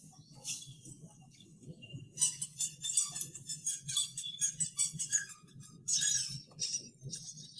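Animated small birds chirping and chattering in rapid high-pitched bursts, sparse at first and then dense from about two seconds in, over a steady low hum.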